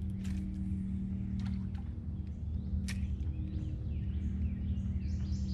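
Wild birds calling: scattered short, sharp chirps, then near the end a bird begins a quick run of repeated high notes, about three a second. A steady low rumble and hum sits under it all.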